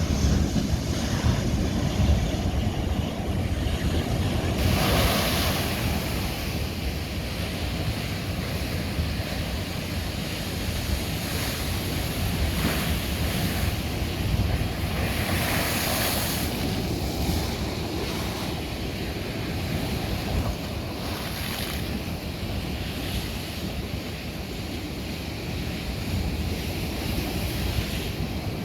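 Ocean waves crashing on a shore of old lava rock: a steady, deep surf rumble, with two louder, brighter washes of breaking water, about five seconds in and again around sixteen seconds.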